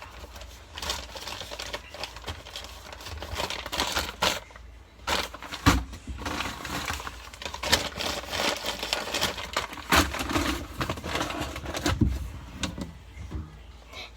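Food packages and containers being handled and moved around a fridge: steady plastic rustling and crinkling, with several knocks as items are set down on the shelves.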